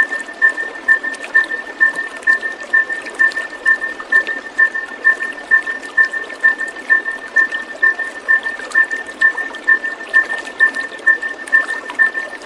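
Water trickling and splashing steadily, under a repeating chirp on two pitches that pulses a little over twice a second without a break.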